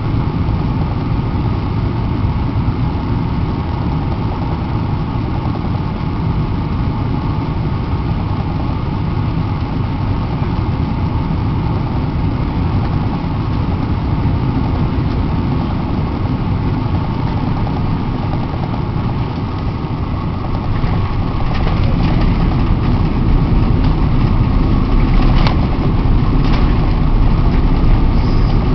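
Steady airliner cabin noise from a Boeing 777-300 in flight: engine and airflow noise with a low rumble and a faint hum. It grows somewhat louder about two-thirds of the way through, and two short clicks come near the end.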